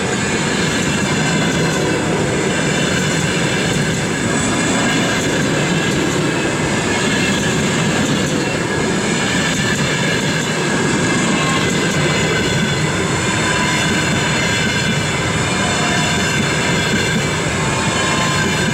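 Passenger train rolling past at speed: a continuous loud rumble of wheels on the rails, with steady high ringing tones from the wheels over it.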